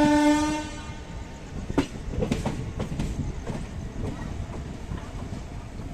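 A train horn gives one short, steady blast under a second long, followed by the steady rumble of a train, with a single sharp knock about two seconds in.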